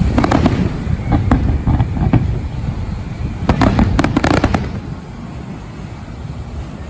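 Fireworks exploding: scattered bangs and crackles, then a dense burst of sharp cracks about four seconds in. The bangs then die down under a steady low rumble.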